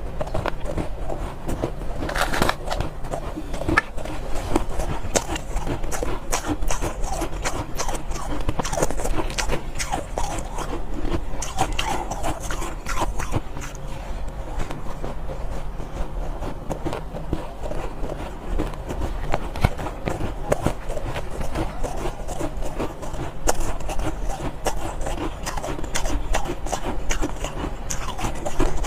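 Soft ice being bitten and chewed: a dense, irregular run of crisp crunches and crackles, over a steady low hum.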